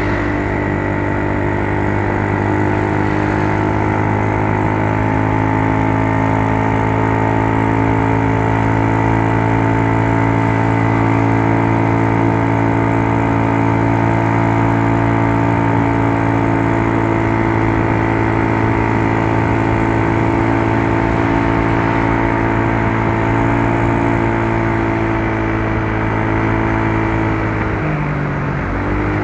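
Yamaha Mio Soul scooter's single-cylinder four-stroke engine running at steady revs, its pitch dipping briefly and recovering near the end.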